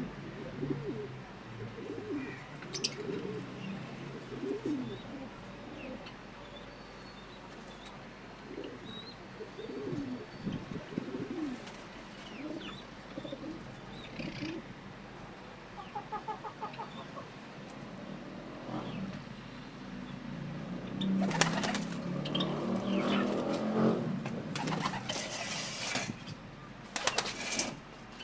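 Pigeons cooing, low repeated calls throughout. In the last third come several loud bursts of wing flapping. A few faint high chirps from small birds are heard.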